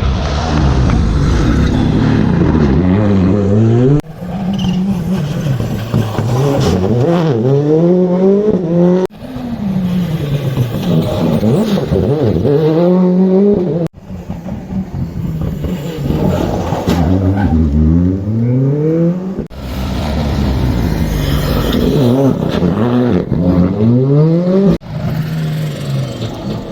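Rally car engines at full throttle, climbing in pitch and dropping again through repeated gear changes. The sound runs as a series of short passes, with an abrupt cut about every five seconds.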